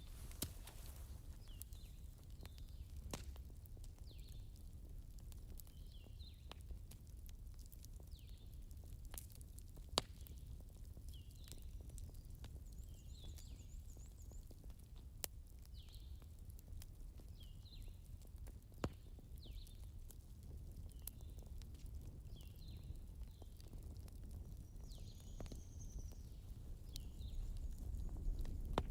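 Campfire crackling sparsely, with scattered sharp pops (the loudest about ten seconds in) over a low steady rumble, and many short, faint high chirps throughout.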